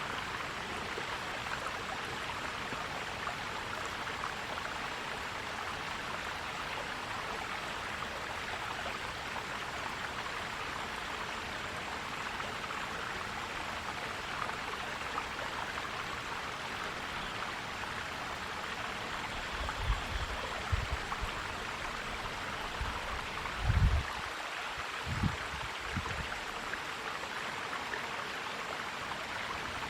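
Steady gurgling of a forest stream flowing over rocks. A few brief low thumps come in about two-thirds of the way through.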